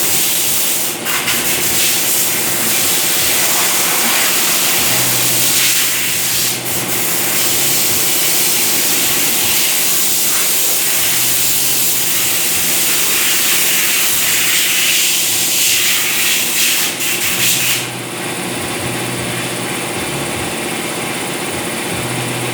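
Water spray hissing steadily against a car's engine bay during an engine wash, with a few brief clicks. About three quarters of the way through it changes to a quieter, steadier high hiss.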